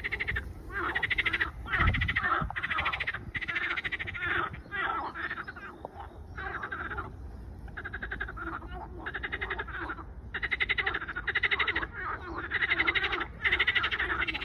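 A chorus of frogs croaking. Many overlapping calls, each a short rattling burst about half a second long, follow one another without pause.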